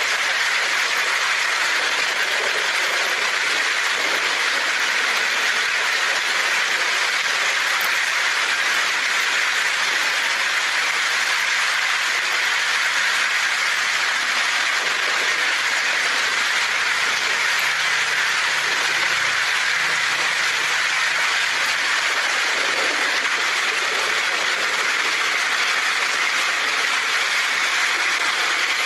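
Heavy rain falling steadily on a tin roof, an even, dense hiss with no thunder.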